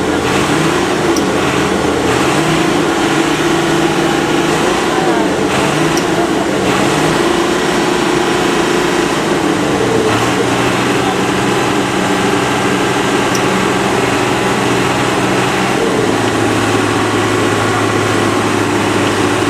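Motor vehicle engines running steadily. The engine note changes pitch about halfway through and again near the end.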